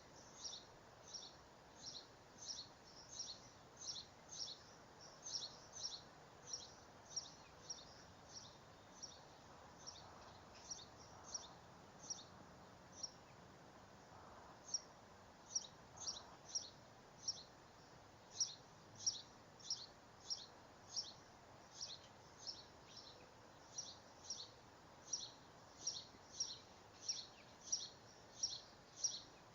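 A bird's short, high chirps repeating steadily about two to three times a second, with a brief pause about halfway through, over a faint outdoor hiss.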